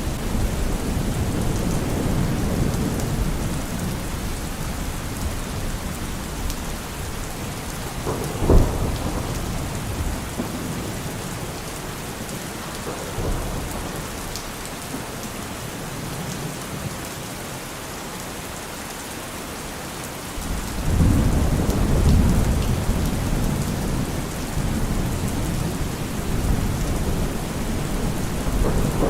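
Steady heavy rain with rolling thunder. A sharp thunderclap comes about eight and a half seconds in, and a low rumble swells again about two-thirds of the way through.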